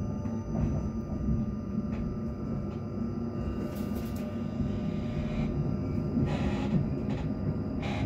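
Inside a South Western Railway Class 458/5 electric multiple unit: a steady low rumble with faint steady whining tones, and a few short hissy noises partway through.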